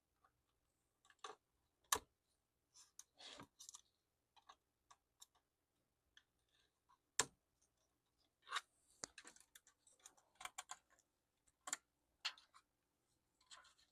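Faint, scattered clicks and brief scraping sounds of small plastic laptop parts being handled during the disassembly of a Lenovo ThinkPad T430.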